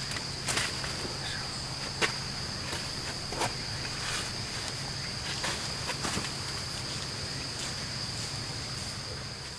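Insects chirring in one steady high-pitched buzz, with scattered sharp clicks and knocks; the loudest click is about two seconds in.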